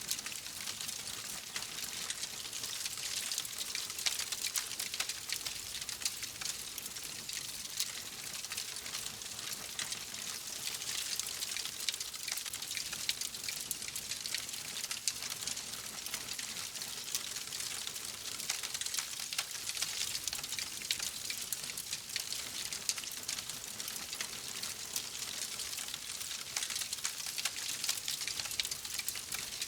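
Fire in a fireplace crackling steadily: a dense run of small pops and crackles over a soft hiss.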